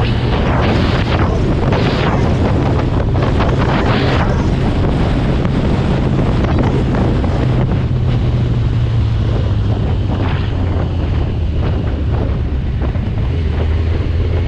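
Wind rushing over the microphone of a moving superbike, loud and steady with several stronger gusts in the first few seconds. The motorcycle's engine hums low underneath and shifts pitch twice as the rider changes speed in traffic.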